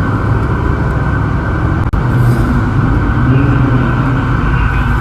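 Loud, steady car engine and exhaust noise at close range, with a faint rise in pitch around the middle. The sound drops out for an instant about two seconds in.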